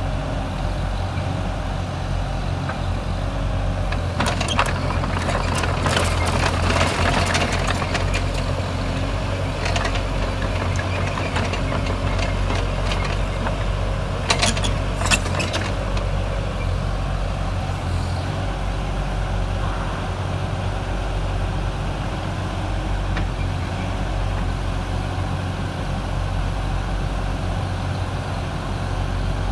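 Diesel engine of a JCB JS30 compact excavator running steadily at idle. There is a stretch of louder clatter about four to eight seconds in and a few sharp knocks around the middle.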